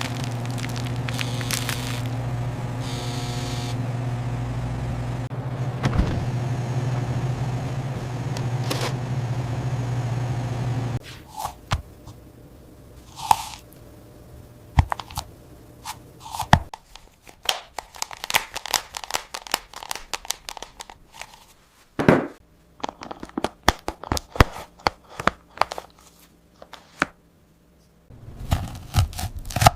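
A steady low machine hum with occasional clicks cuts off suddenly about eleven seconds in. After that come scattered scrapes, clicks and crunches.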